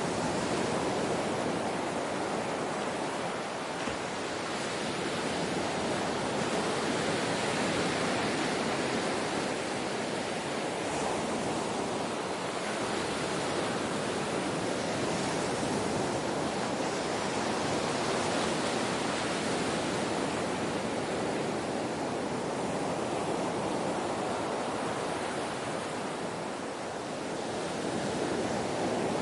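Ocean surf: a continuous rush of breaking waves that swells and eases slowly.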